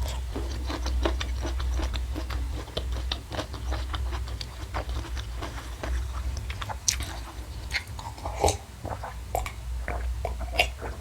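A person chewing and crunching food close to the microphone: irregular wet mouth clicks and crackles, over a steady low hum.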